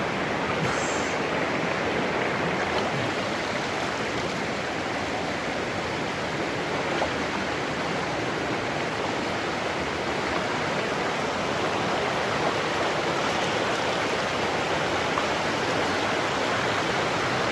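River water rushing steadily over rocks, an even unbroken noise.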